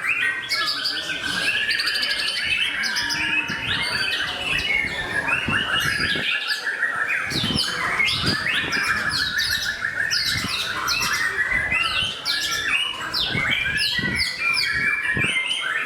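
White-rumped shama (murai batu) in full song: a dense, continuous run of rapid, varied whistles and chirps.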